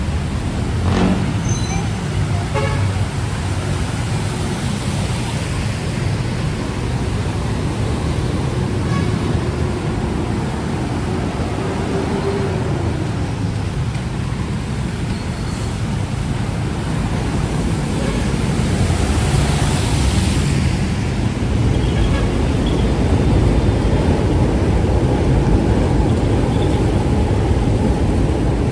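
Road traffic: vehicle engines running and passing, with car horns sounding now and then.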